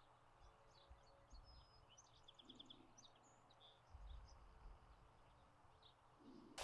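Faint bird chirps, with a short rapid trill a little past two seconds in, over low steady background noise.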